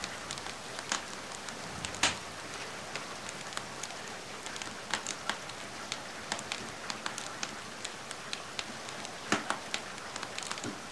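Steady rain falling together with a wood fire crackling, with irregular sharp pops over the even hiss; the loudest pop comes about two seconds in, and a cluster follows near the end.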